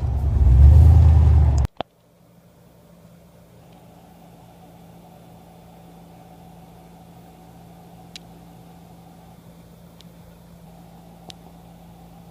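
A loud low vehicle rumble that cuts off abruptly a couple of seconds in, followed by a faint steady mechanical hum with three light ticks.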